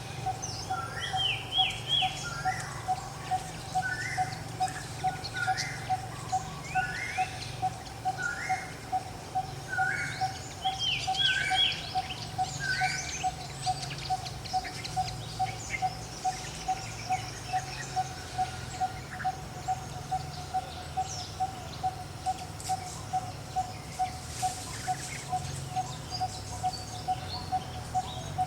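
Forest ambience: birds chirping in short, repeated rising notes through the first half, over an even pulsing call repeated roughly twice a second throughout and a low steady hum.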